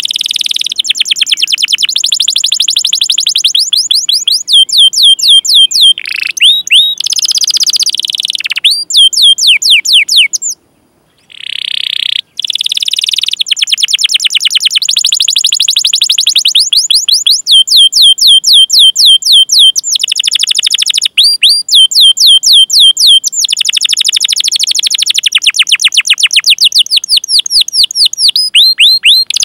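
Domestic canary singing long, fast rolling trills of rapid repeated high 'cuit cuit' chirps, many notes a second, broken by a couple of short pauses.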